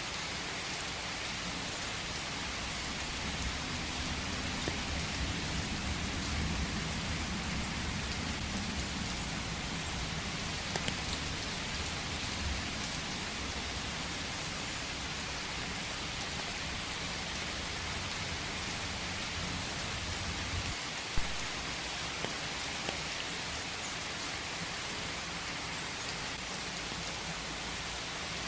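Steady rain falling, a dense even hiss of drops. A low rumble runs underneath for most of the time and stops about three-quarters of the way through, where a single sharp click stands out.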